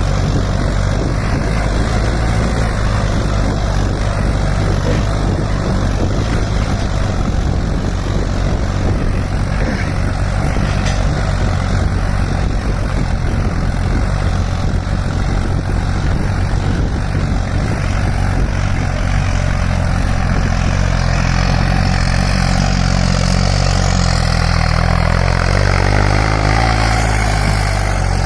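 Farmtrac 60 PowerMaxx tractor's three-cylinder diesel engine, fitted with an aftermarket turbo and with its fuel turned up, running steadily under load. Its pitch shifts slightly about three-quarters of the way through.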